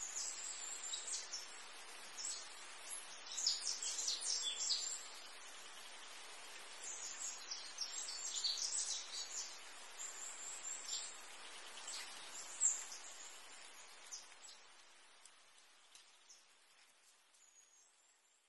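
Birds chirping in quick high-pitched runs over a steady hiss, fading out near the end.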